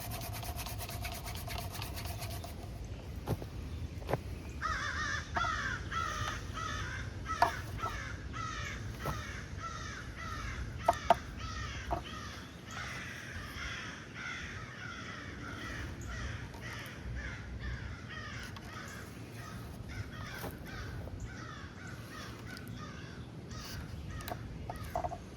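Crows cawing over and over for most of the stretch, with a few sharp clicks among the calls.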